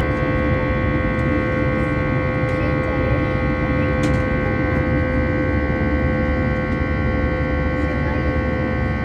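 Airliner engines heard from inside the cabin while climbing after takeoff: a steady low rumble with several steady whining tones on top.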